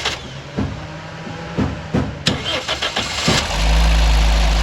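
Toyota Corolla XLi engine being cranked on the starter, catching about three and a half seconds in and running at a steady idle that eases down slightly.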